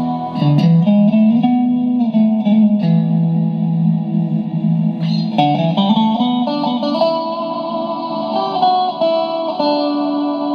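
Clean electric guitar, a Stratocaster, played through a Boss RV-6 digital reverb shaped by a Boss GE-7 equalizer into two Roland JC-120 amps in stereo. It plays sustained chords and short melodic lines that ring into one another, with new strums about half a second in, near three seconds and around five seconds.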